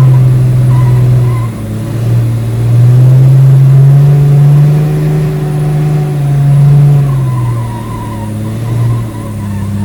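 Heavy truck's engine running hard at high revs. It dips about a second and a half in, climbs and holds loud again, then eases off in the last few seconds.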